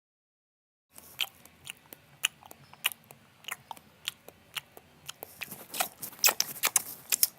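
Crisp, irregular crunching clicks like something crunchy being bitten and chewed, starting after about a second of silence and coming faster and louder toward the end.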